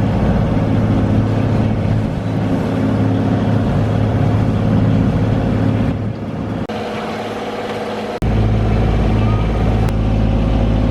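Small sailboat's engine running steadily while motoring under way, with a low, even drone. The sound changes abruptly about two-thirds of the way through and again a second later.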